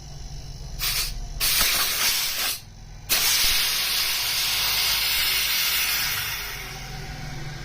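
Spray hissing in three bursts while a refrigerator condenser is cleaned: a short one, a longer one, then a long burst that fades away. A steady low hum runs underneath.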